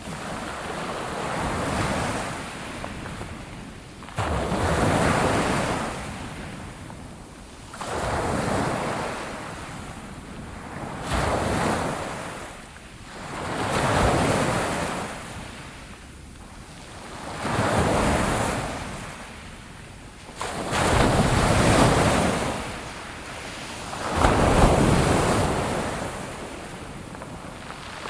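Sea waves breaking on a shore, one surge of surf every three to four seconds, each swelling and washing away, a few breaking more sharply. Some wind noise on the microphone.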